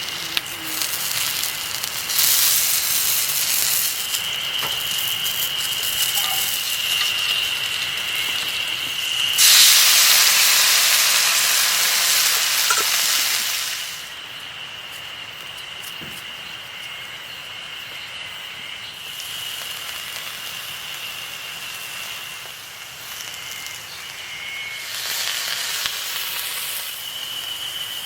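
Food sizzling and hissing as it fries over a campfire, swelling loudest about a third of the way in and dropping back about halfway through, with a smaller swell near the end. A thin steady high tone runs underneath.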